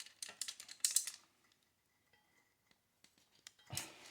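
Metal wrenches clicking and scraping on a water heater thermocouple's brass compression nut as it is tightened, a quick cluster of clicks in the first second or so and then scattered ticks, with a short louder noise near the end.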